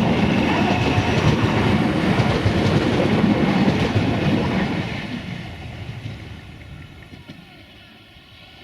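DART electric commuter train running past on the line, wheels clattering over the rails, loud for the first half and then fading away over the last few seconds as it draws off.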